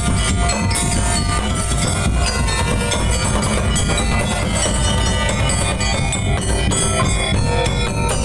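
Madurese daul music: a loud percussion ensemble playing continuously, heavy drums under steady melodic lines.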